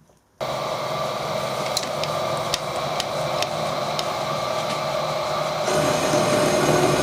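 Milling machine switched on about half a second in, its spindle running steadily with a 10 mm carbide cutter going into a broken stud to drill it out; a few sharp ticks come through, and the sound gets louder about six seconds in.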